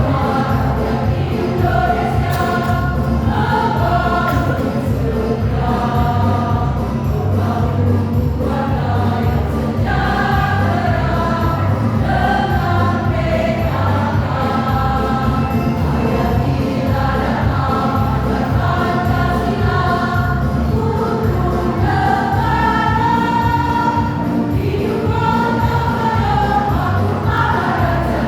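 A choir singing a song in parts over a steady musical accompaniment.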